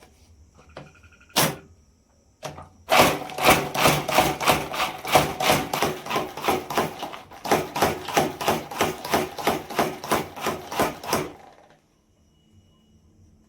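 Rapid, regular sharp strikes on wood, about three a second for some eight seconds, then stopping suddenly.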